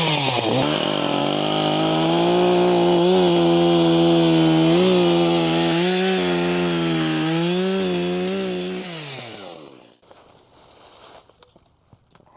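Stihl 361 two-stroke chainsaw running at high revs, its pitch wavering slightly as the load changes, then winding down and stopping about nine seconds in.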